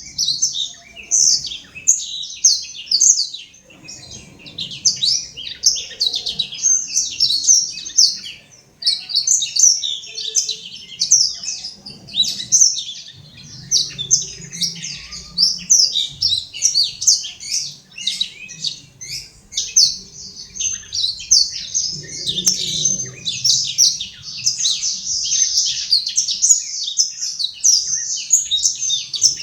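Blackthroat (black-throated canary) in full song: a long, fast, nearly unbroken run of high twittering and trilling notes, pausing briefly about 4 and 9 seconds in.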